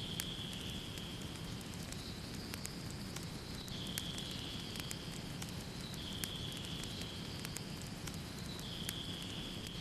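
Fireplace fire crackling, with frequent sharp pops over a steady low rumble. A faint high-pitched tone comes and goes every couple of seconds.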